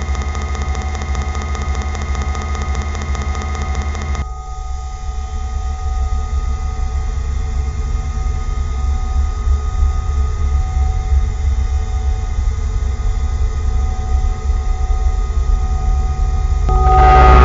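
An engine running steadily with a low hum and constant tones. Its tone shifts about four seconds in, and it gets much louder near the end.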